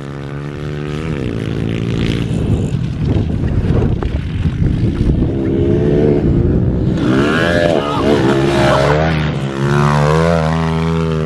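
Pit bike engines revving hard, climbing and dropping in pitch again and again as the small four-stroke minibikes race around a dirt track. The engine note is loudest about seven seconds in and again near the end.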